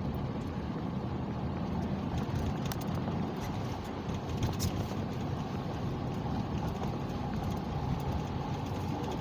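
Steady car road and engine noise heard from inside the cabin while driving on snowy streets, with a few faint clicks.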